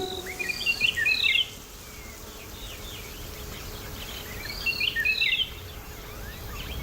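Wild birds chirping in two short bursts of quick gliding calls, one near the start and one about five seconds in, over a faint steady outdoor background.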